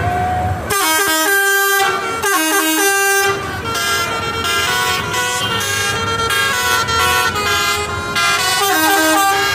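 Vehicle horns and air horns blaring, several at once, their steady tones overlapping at different pitches and changing every half second or so.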